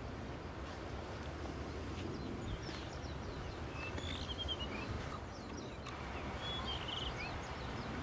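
Blue rock thrush giving two short phrases of high chirping notes, about four seconds in and again about seven seconds in, over a steady low rumble of wind and surf.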